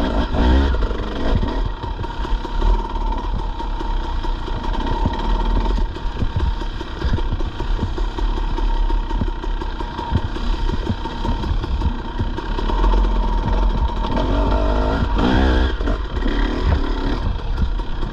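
Dirt bike engine running as the bike is ridden over a rough trail, its pitch shifting with the throttle, with frequent knocks and clatter from the bumps.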